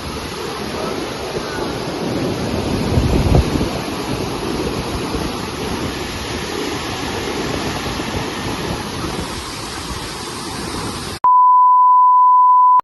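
Steady rush of floodwater, with a brief gust of wind on the microphone a few seconds in. It cuts off near the end to a loud, steady high-pitched beep lasting about a second and a half.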